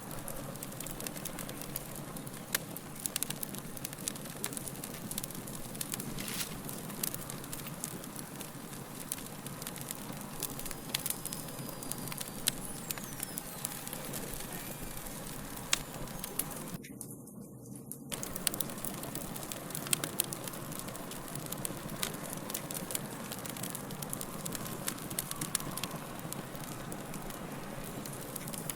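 Fire crackling: a steady hiss thick with sharp pops and snaps. The crackle drops out briefly for about a second a little past the middle.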